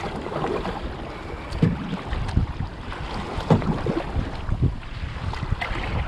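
Water slapping and splashing against a kayak being paddled through choppy water, in irregular knocks, with wind buffeting the microphone.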